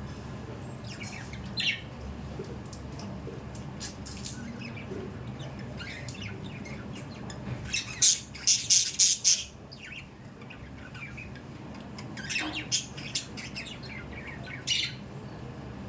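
Budgerigars chirping and squawking in short scattered calls, with a loud flurry of sharp calls about halfway through, over a steady low background hum.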